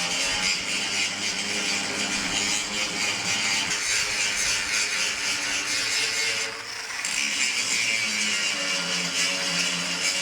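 Angle grinder grinding down welds on a steel crane extension, with a continuous, harsh grinding hiss that eases briefly about two-thirds of the way through.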